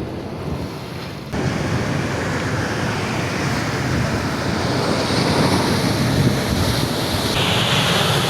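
Ocean surf washing, with wind buffeting the microphone in a steady rush that gets suddenly louder about a second in.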